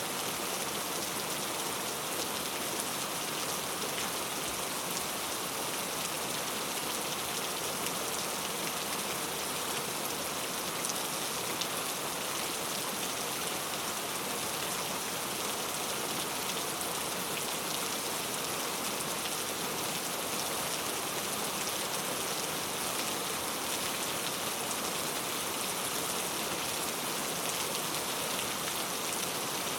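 Steady rainfall, a dense even patter of drops hitting a surface with fine scattered ticks, unchanging throughout.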